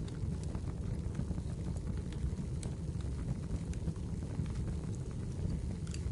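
Firewood burning in a fireplace: a steady low rush with scattered sharp crackles and pops throughout.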